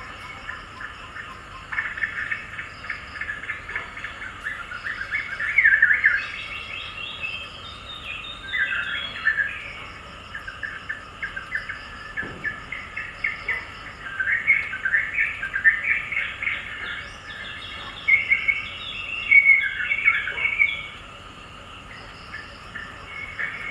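Small birds chirping and twittering in quick runs of notes, loudest in a few busier stretches, with a higher, fast pulsing trill that comes and goes.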